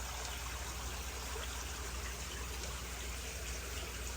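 Water trickling steadily in a crayfish pond as a homemade overflow pipe fills, over a constant low hum.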